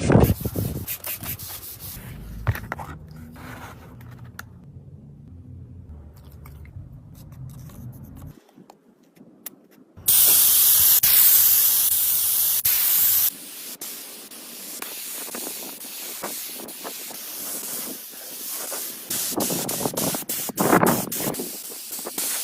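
A loud, steady spray hiss for about three seconds near the middle, amid other rubbing and clicking workshop noises.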